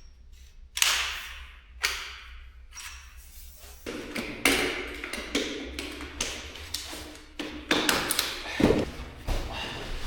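A series of knocks, taps and clatter from camping gear being handled on a hard floor, with a louder thump near the end.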